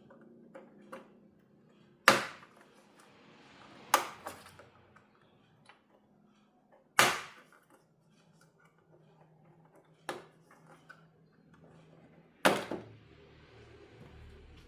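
Five sharp clacks or knocks a few seconds apart, each with a short ring-out, like hard objects being handled or set down on a workbench, over a faint steady hum.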